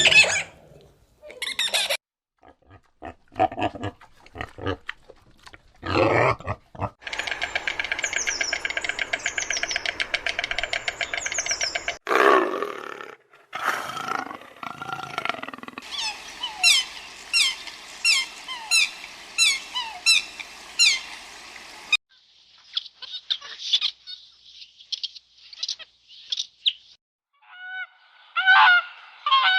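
A run of different animal calls, changing abruptly every few seconds: short calls and grunts, then a steady fast-pulsing call, then rows of repeated high falling chirps, then quicker high calls near the end.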